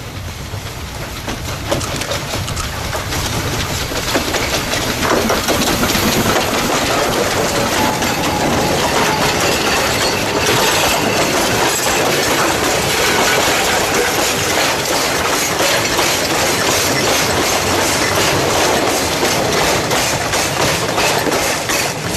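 Narrow-gauge coal train behind a C2 steam locomotive running by, its wagon wheels clattering over the rail joints. The sound grows louder over the first few seconds and then stays steady and loud.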